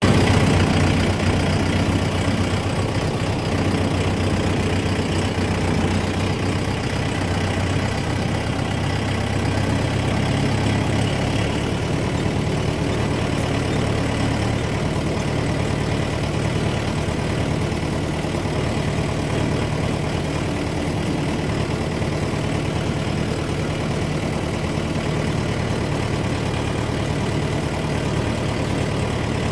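Tractor engine running steadily, a low, even engine note whose pitch shifts slightly a couple of times.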